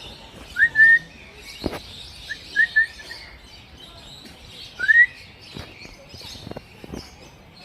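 Caged birds calling: loud short rising chirps in three clusters over a steady chatter of many birds.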